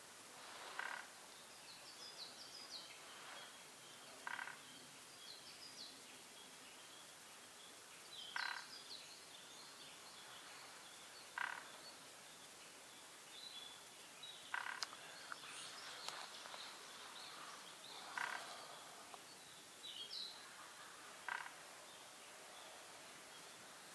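Short, harsh calls repeat every three or four seconds, about seven in all. Under them runs faint high twittering of small birds, over a quiet outdoor background.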